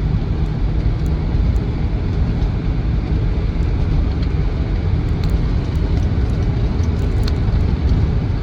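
Cabin noise of a 2007 Land Rover Defender 90 TDCi's 2.4-litre diesel under way: a steady low engine drone and road rumble, with a few faint clicks of the tailgate rattling on a bumpy road.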